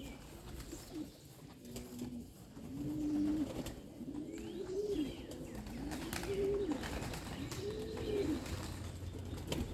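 Pigeons cooing: a run of low, arching coos, about one a second, with a few faint clicks.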